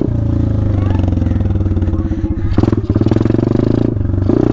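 Small single-cylinder four-stroke off-road bike engine running under throttle while riding, easing off and picking up again a couple of times.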